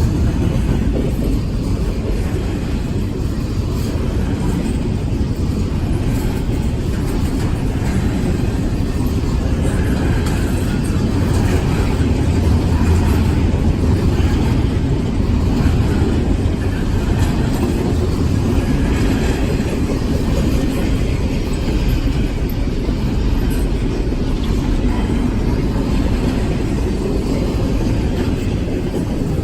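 Freight train rolling past, a steady rumble of rail cars on the track.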